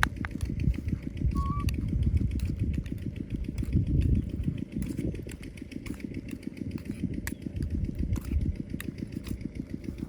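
A small engine running steadily, with a low, rapid pulsing.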